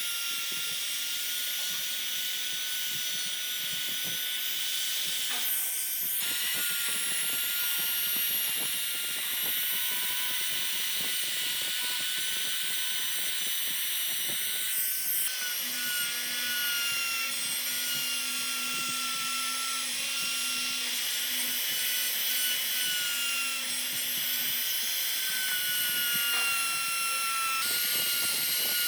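Electric power carving tool cutting wood, running with a steady high whine over a rough grinding noise. Its pitch wavers slightly as it bears into the wood, and it breaks off briefly twice.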